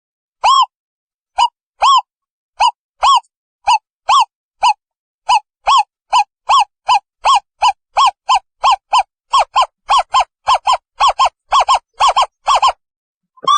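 Owl calling: a series of short, clear hoots that speeds up from about two a second to about four a second, stopping just before the end.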